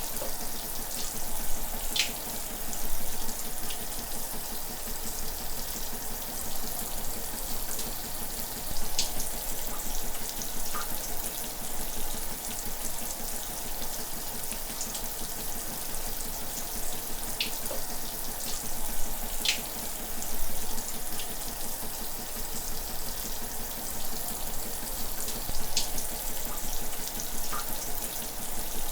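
Shower running: a steady hiss of water spray, with a few brief, sharper ticks now and then.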